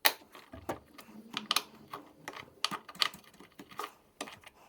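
Sharp metal clicks and clinks, a few a second at uneven spacing, from a breaker bar and 17 mm socket being worked on the engine mount bolts.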